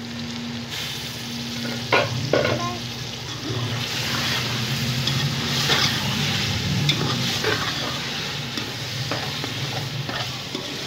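Beef keema mince sizzling and frying in an aluminium pot while a metal spoon stirs and scrapes through it. The water has cooked off, so the mince is frying in its fat. A couple of sharp metal knocks come about two seconds in, and the sizzle grows louder soon after.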